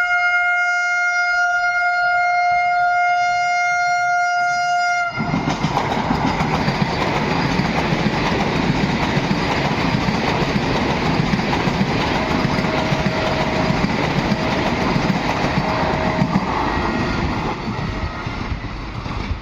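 An express train's horn sounds one long, steady note for about five seconds, then cuts off as the train reaches the microphone and rushes past at high speed with a loud, continuous roar of wheels on rail.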